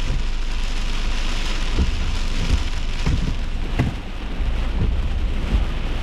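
Heavy rain beating on a car during a severe thunderstorm: a steady hiss with many sharp drop hits and a low rumble underneath.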